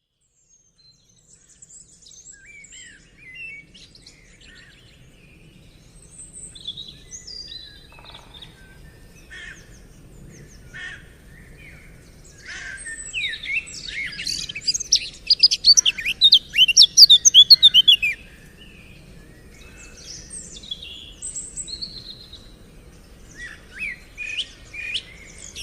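Small birds chirping and calling, with a dense flurry of rapid chirps for several seconds around the middle.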